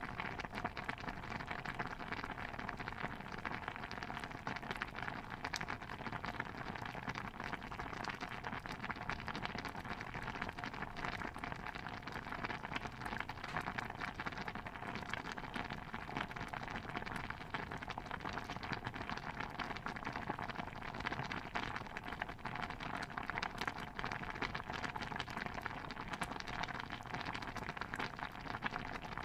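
Steady ambience of dense, fine crackling and pattering, with no distinct events and no change in level.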